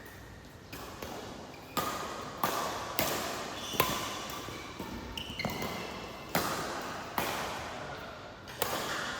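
Badminton rally: sharp racket hits on the shuttlecock about once a second, each ringing out in the hall, with short shoe squeaks on the court floor between them.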